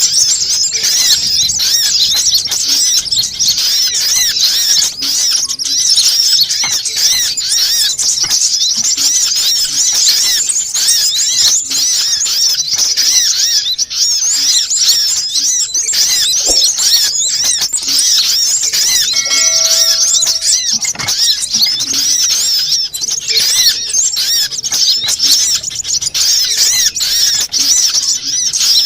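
Dense, continuous high-pitched twittering and chirping of sunbirds, a lure call used to attract sunbirds. A short steady beep-like tone sounds briefly about two-thirds of the way through.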